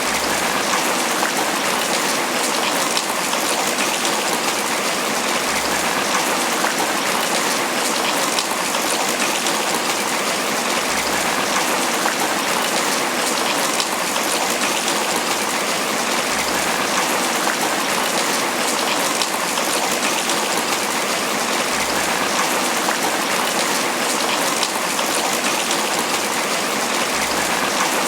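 Tropical rain falling steadily on banana leaves, an even, unbroken wash of drops that stays at the same strength throughout.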